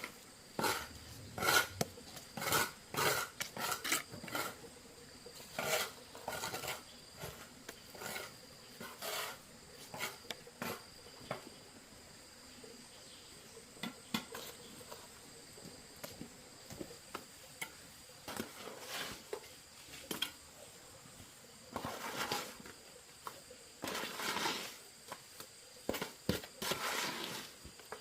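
Irregular clinks, knocks and scrapes of hard objects being handled, coming in clusters with quieter gaps in between.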